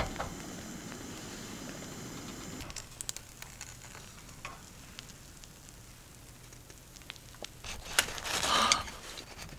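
Sausage toast sizzling in a hinged sandwich-toaster pan on a gas stove for the first few seconds. Then scattered light clicks and knocks as the pan is handled and opened, and a louder burst of handling noise near the end.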